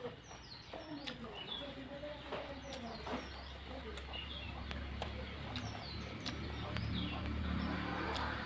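Small birds chirping again and again in the background, with scattered sharp clicks and a low steady hum that comes in about three seconds in.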